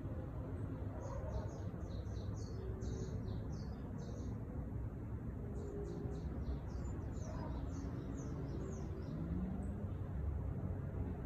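Songbird singing two quick runs of short, high chirping notes, the second starting a little after the first ends, over a steady low background rumble.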